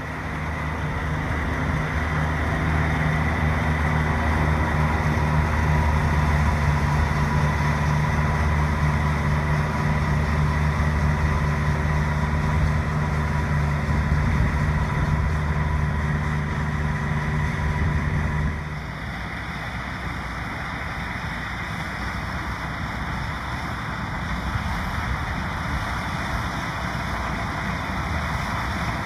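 Combine harvester running steadily in the field, its engine giving a constant, even tone. About eighteen seconds in, the sound drops abruptly to a quieter, even rumble without the clear engine tone.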